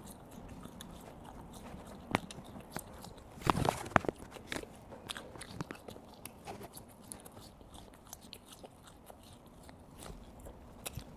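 A person biting and chewing spicy gluten strips (latiao) close to the microphone: scattered small wet clicks, with a louder cluster of bites about three and a half seconds in.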